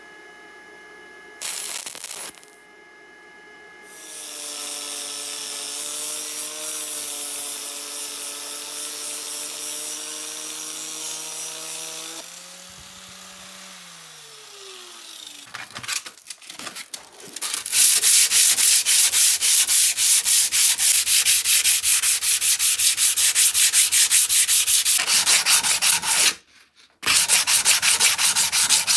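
An electric workshop tool's motor runs steadily for several seconds, then winds down with falling pitch. After that comes the loudest part: fast, repeated back-and-forth sanding strokes, with a brief pause near the end.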